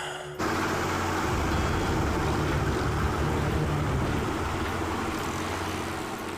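A moving vehicle running with a steady rumble and hiss, cutting in suddenly about half a second in.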